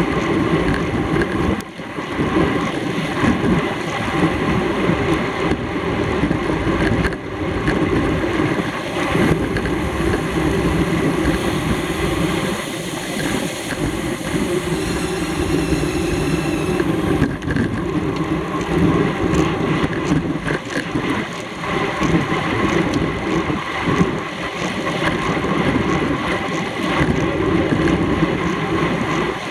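Wind rushing over the microphone of a camera carried on a bicycle during a road race, a steady loud buffeting.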